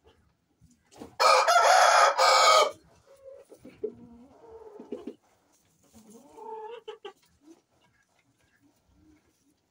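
A rooster crows once, loud, for about a second and a half, then quieter clucking calls follow.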